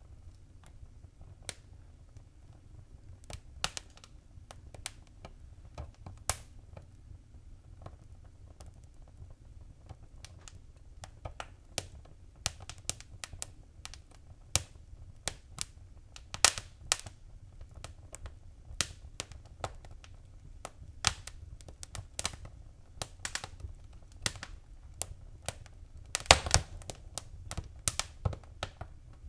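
Wood fire crackling in a fireplace: irregular sharp pops and snaps, at times several a second, over a low steady rumble of the flames, with a quick burst of louder pops near the end.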